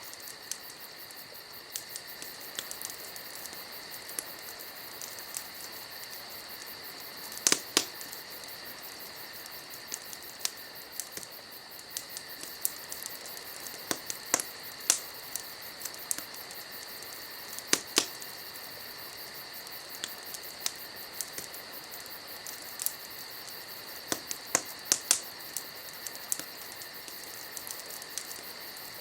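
Wood fire crackling, with irregular sharp pops, a few much louder than the rest, over the steady high chirring of night insects.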